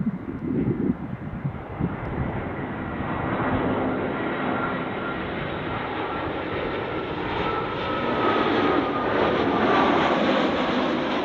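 Jet airliner on short final approach, its engine noise building as it comes close and loudest near the end, with a thin whine that drifts slightly lower in pitch. Wind buffets the microphone at the very start.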